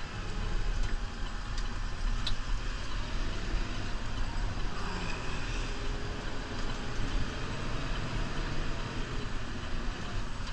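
New Holland Powerstar 75 tractor's diesel engine running steadily under load while plowing snow, with a few faint clicks and rattles.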